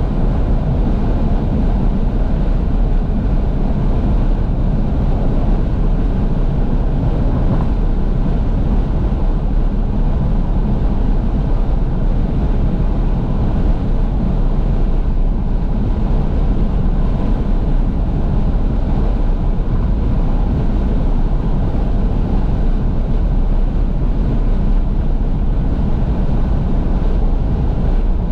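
Steady in-cabin driving noise of a 2012 Fiat 500S with all windows open: wind rushing in through the windows over a low rumble of tyres and engine.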